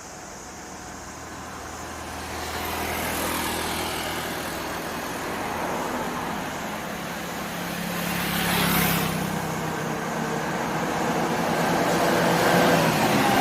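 Heavy truck engine running and growing steadily louder as the truck comes closer. There is a short hiss about nine seconds in.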